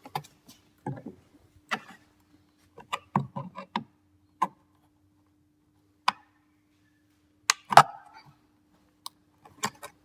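Scattered plastic clicks and knocks as the interior door-handle trim of a VW T4 door is pried and worked loose from its clips, with the sharpest knocks about three-quarters of the way through. A faint steady hum runs underneath.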